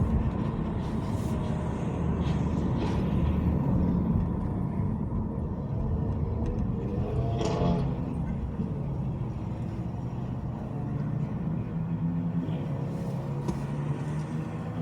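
Car driving on city streets: a steady rumble of engine and tyres on the road, with a brief pitched sound about halfway through.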